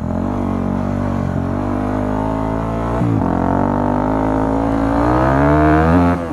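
Yamaha WR250 dirt bike's single-cylinder engine under way at low revs, with a gear change about three seconds in. The revs then climb steadily as it accelerates, and drop with a shift near the end.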